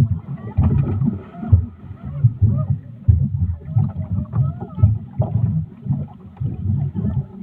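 Choppy, uneven rumble of a ride on a boat on open water, with voices mixed in above it.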